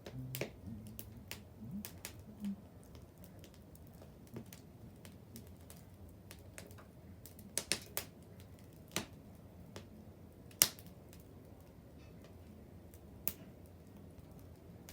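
Wood bonfire crackling: scattered sharp pops and snaps at irregular intervals, with a few louder cracks and one loudest pop about two-thirds of the way through.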